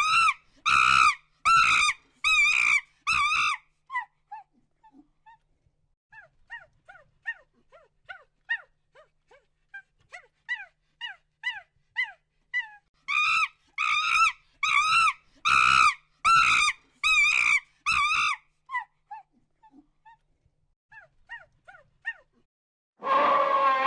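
An animal, dog-like to the tagger, gives a run of loud, high-pitched, wavering yelps about one and a half a second. The yelps drop to quieter short chirps for several seconds, then return loud. About a second before the end a different, rougher noise cuts in.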